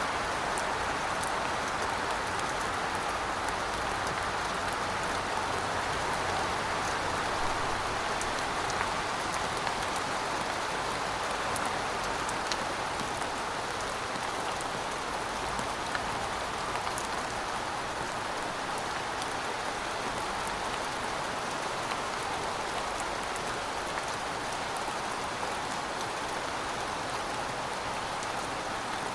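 Heavy rain falling steadily: a dense, even hiss of rain on surfaces with scattered sharper drop ticks.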